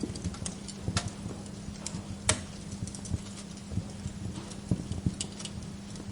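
Wood fire crackling, with irregular sharp pops of burning logs, the loudest about two seconds in, over a low rumble and a steady low hum.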